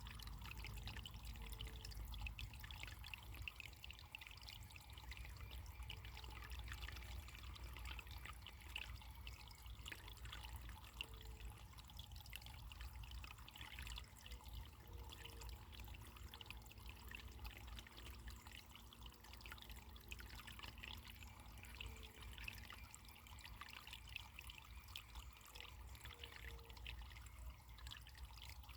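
Running water trickling and splashing steadily, faint.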